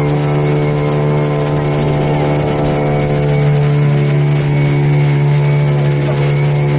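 Glass-bottom boat's engine running at a steady speed under way at sea: a constant, even drone with no change in pitch.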